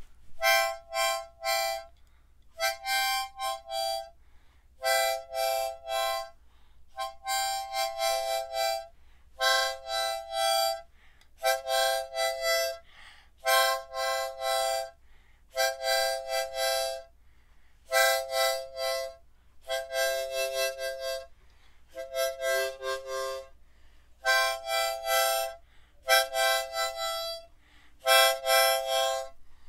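Harmonica playing a slow tune in a series of chords, each held for about a second or so with short breaths between.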